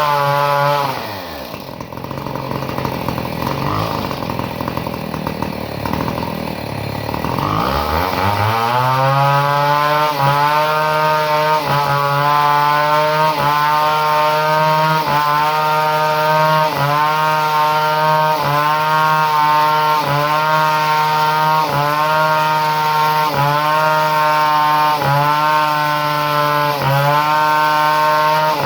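Two-stroke chainsaw engine running at high revs, dropping to a low, uneven idle about a second in, then revving back up near eight seconds and holding steady high revs with a slight brief dip about every second. The saw is being run after a modification to its ignition.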